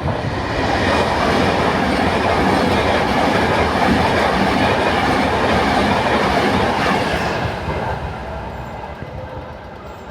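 A train passing through the station: the rumble and rattle of its wheels on the track swell up in about a second, hold loud for several seconds, then fade away over the last few seconds.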